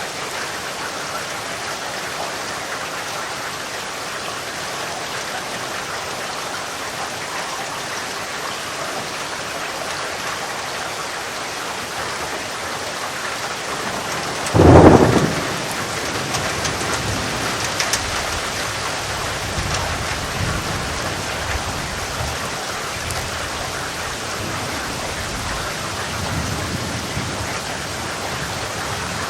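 Steady heavy rain hissing, with a sudden loud thunderclap about halfway through followed by low rolling thunder rumbling on for several seconds.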